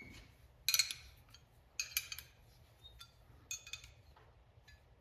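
Metal clinking and scraping from an old brake-line flaring tool being tightened down to clamp 3/16-inch copper brake line, in a few short bursts about a second apart.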